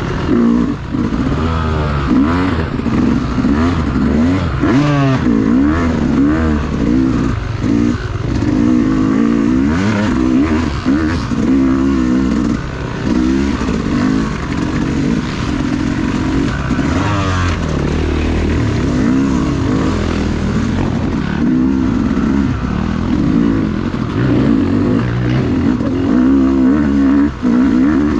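Dirt bike engine being ridden hard on a muddy trail, revving up and down continuously as the throttle is worked, its pitch rising and falling every second or two.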